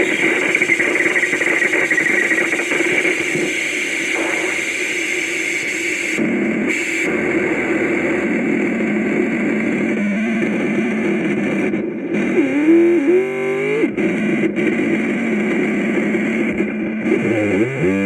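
Homemade touch-controlled noise synthesizer built from analog and digital chips, putting out a steady drone of static and buzzing tones. Twice, wavering pitch sweeps rise through the drone: once about two-thirds of the way in and again near the end.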